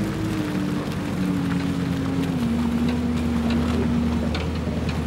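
Heavy machine engine running steadily, its hum stepping slightly lower in pitch partway through, with a few faint knocks.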